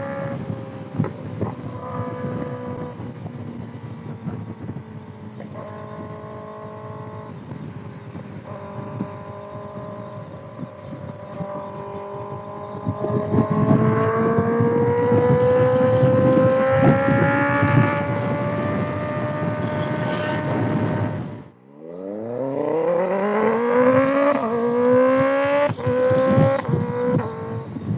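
2025 Kawasaki ZX-6R inline-four with a loud exhaust under way, the engine note fairly steady for the first half. The revs rise slowly from about halfway, drop off sharply a few seconds before the end, then climb hard again, with the pitch falling back sharply at each of three quick upshifts.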